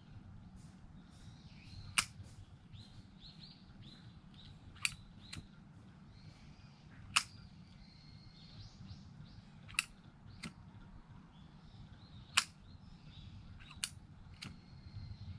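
Wood campfire crackling, with single sharp pops every two or three seconds. Small birds chirp faintly between the pops.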